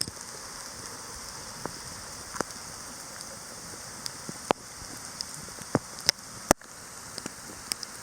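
Steady rain hiss, with single drops landing close by as scattered sharp ticks, several of them louder a few seconds in.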